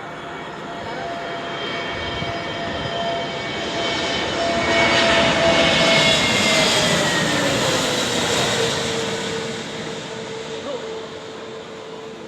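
Airliner passing close by during take-off or landing. The engine sound swells to a peak about halfway through, then fades, and its whine drops in pitch as the aircraft goes past.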